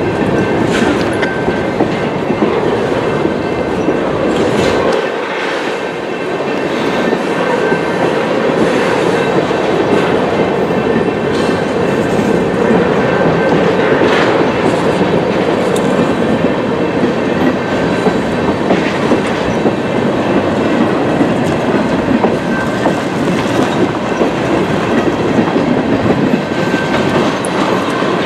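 Freight cars, ballast hoppers then tank cars, rolling past close by: steady rolling noise of steel wheels on rail with irregular clacks as the wheels pass over rail joints.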